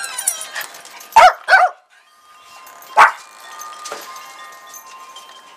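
Small dogs barking: two loud barks close together about a second in, another about three seconds in, and a fainter one a second later.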